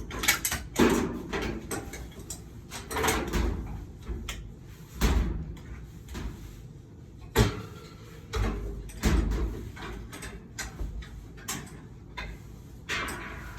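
A door and an improvised door stop being handled to prop the door open: irregular knocks, clunks and scrapes, the door bumping as it is moved and wedged.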